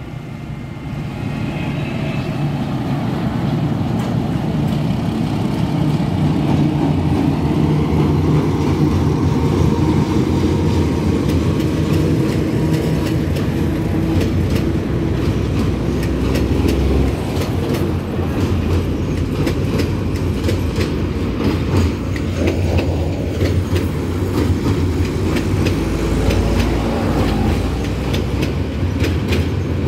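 Passenger train coaches rolling across a steel girder bridge. A loud, steady rumble builds up over the first few seconds, with the clickety-clack of wheels over rail joints growing denser near the end.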